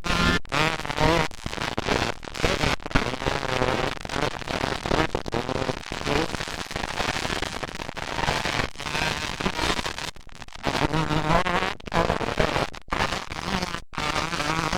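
Several motocross dirt bikes racing, their engines revving up and down as the riders go through the gears and the throttle, with a crackling exhaust note. The sound cuts out briefly a few times.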